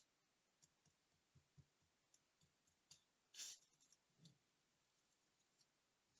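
Faint light clicks and taps of small parts and tools being handled, with one short scratchy rub about three and a half seconds in.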